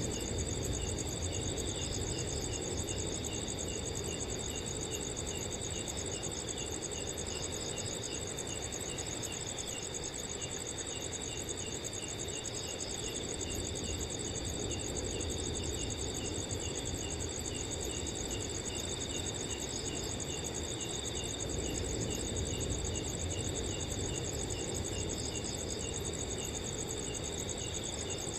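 Several crickets chirping together at night: a continuous high trill, a regular chirp about twice a second, and short bursts of faster trilling that come and go, over a soft low rush of wind.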